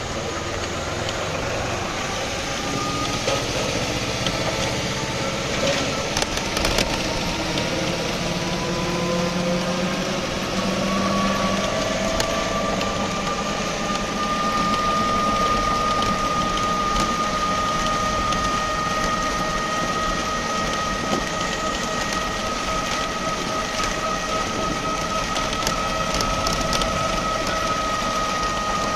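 Steady rain falling, an even hiss with scattered drop ticks, with a sustained hum underneath whose pitch rises slowly during the first half.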